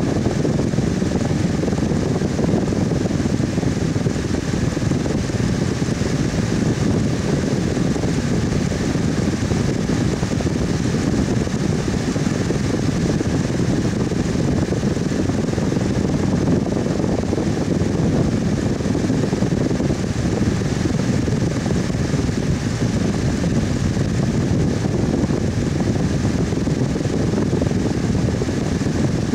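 Electric fan running steadily: an even airy whoosh, weighted low, with no change in speed.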